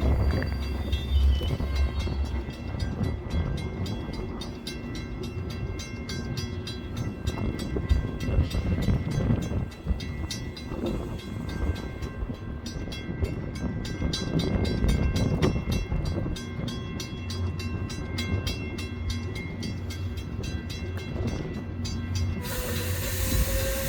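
A train running past on the rails, a steady low rumble with rapid, regular clicking of wheels over the track. Just before the end a louder hiss rises and a single steady tone begins.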